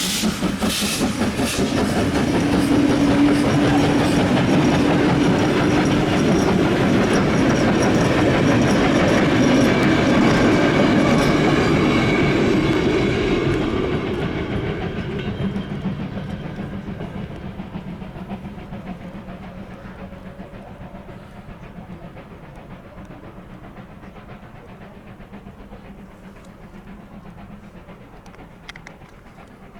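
Steam locomotive 23 042 and its train of coaches rolling past: the noise is loudest through the first half, then fades away steadily over the second half as the train draws off.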